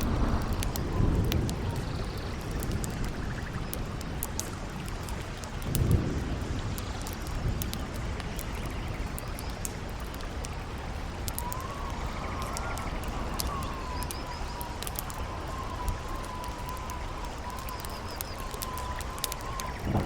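Mixed nature ambience: a steady low rush of wind with gusts, the loudest about six seconds in, under the sharp scattered crackles of a campfire. From about halfway through, a wavering, whistling wind howl rises and falls.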